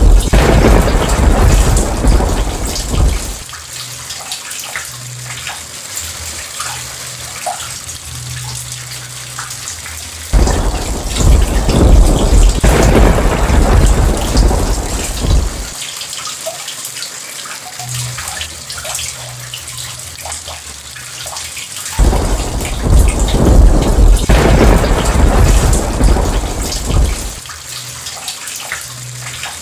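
Steady heavy rain with rolling thunder: three deep rumbles of about five seconds each, the first fading out a few seconds in, the next two starting suddenly about a third and three-quarters of the way through.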